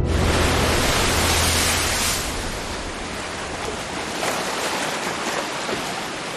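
Steady rushing water noise that comes in suddenly and eases slightly after about two seconds, with low music fading out underneath at the start.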